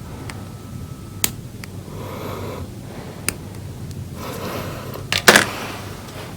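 Small handling noises on a repair bench: a few isolated sharp clicks, soft rustling, and a quick cluster of louder clicks about five seconds in, over a low steady hum.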